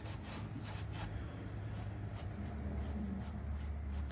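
Paintbrush strokes brushing and scrubbing paint on a painting surface, short scratchy strokes a few times a second, over a steady low hum.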